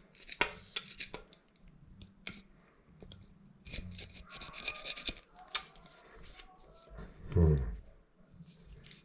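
Scraping and rubbing at old shower faucet parts by hand, broken by scattered small clicks and knocks, with a short low voice sound about seven seconds in.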